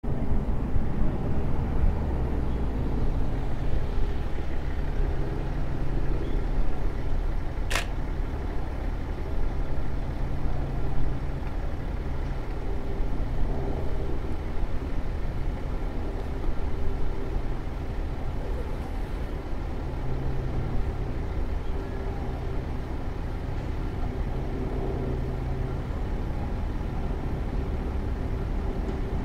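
Steady rumble of a train running, with faint steady tones that come and go. A single sharp click sounds about eight seconds in.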